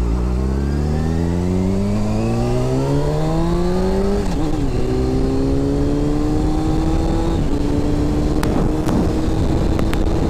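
2006 Honda CBR600 F4i's inline-four engine accelerating while riding: the pitch climbs for about four seconds, drops with an upshift, climbs more gently, drops again with a second shift, then holds steady at cruise. A few sharp ticks come near the end.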